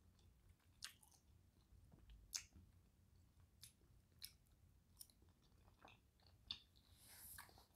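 Faint close-up mouth sounds of a person chewing a soft forkful of rice, shrimp and Alfredo sauce: small wet clicks and smacks about once a second, with a short breath-like hiss near the end.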